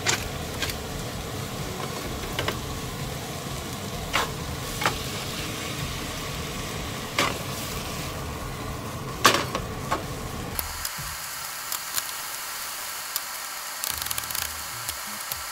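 Shrimp, red onion and garlic frying in a nonstick pan, sizzling and crackling, with sharp clicks and knocks as the pan is tossed and stirred with a wooden spatula. The loudest knock comes about nine seconds in. A low rumble under the sizzle stops suddenly about ten and a half seconds in.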